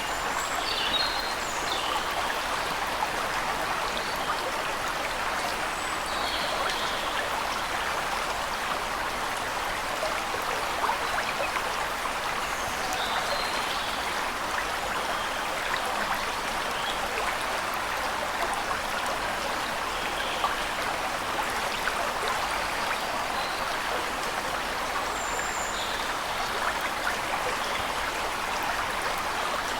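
Waterfall rushing steadily, with brief high bird chirps now and then over the water.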